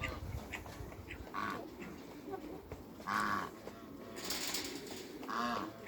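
Geese honking: three short calls, about a second and a half in, a little after three seconds, and near the end, the middle one loudest. A brief rushing, hissing noise comes a second before the last honk.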